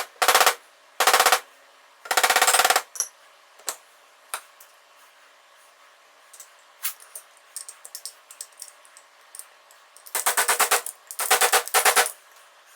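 Fork seal driver hammered rapidly against the top of a new oil seal in a Kawasaki KZ1000 fork leg, metal clacking on metal in quick rattling bursts as the seal is driven in. Four bursts come in the first three seconds, then light clicks, then three more bursts near the end.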